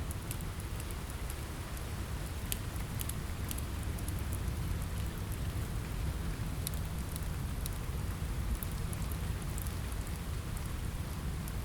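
Steady rain pattering on a window, with a low rumble underneath and scattered sharp crackles and pops of a wood fire in a fireplace.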